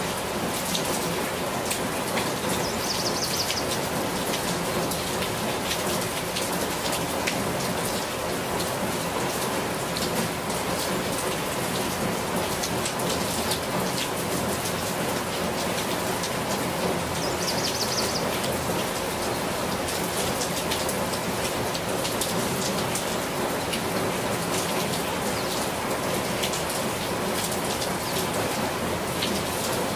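Steady rain falling, with many separate drop hits throughout. Twice, a brief high-pitched sound rises above it.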